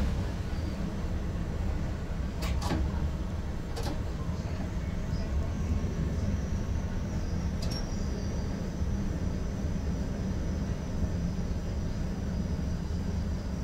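Steady low rumble inside the cab of an NS ICM (Koploper) electric train, with a few sharp clicks about two and a half and four seconds in and again near eight seconds, and a faint high whine from about five seconds on.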